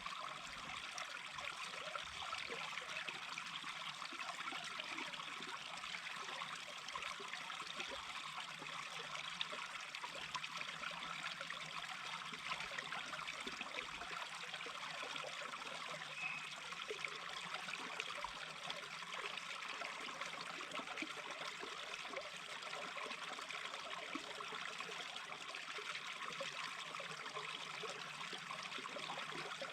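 A small stream babbling and trickling over stones, a steady even rush of water.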